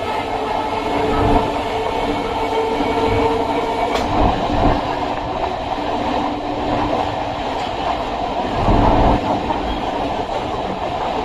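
Chennai MRTS suburban electric train running along the track with a steady rumble of wheels on rail. A few sharp clicks come through, one clear one about four seconds in.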